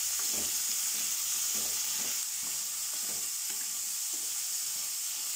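Diced potatoes and broccoli stalks sizzling in hot oil in a steel kadhai, a steady high hiss, with a wooden spatula stirring them and knocking lightly against the pan at irregular moments.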